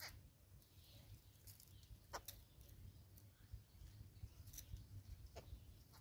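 Faint outdoor ambience of soft, distant bird calls, broken by three brief sharp clicks: one at the start, one about two seconds in and one past five seconds.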